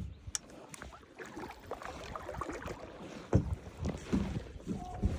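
Kayak being paddled: paddle strokes and water splashing, with irregular knocks and clicks, the louder thumps coming in the second half.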